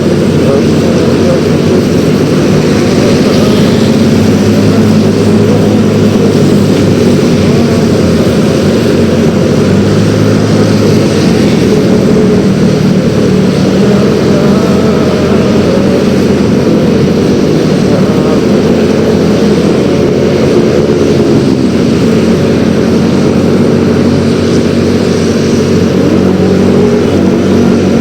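Yamaha X-Ride 113cc scooter's single-cylinder engine running while riding, its pitch rising and falling a little with the throttle, over steady road and wind noise.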